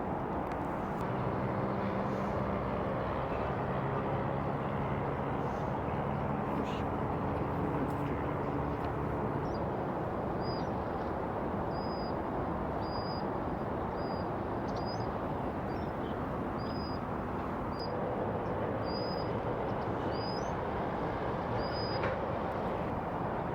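A small bird gives a short, high single note over and over, about once a second, starting about ten seconds in. Under it runs a steady low rumble, with a humming engine-like drone through the first several seconds.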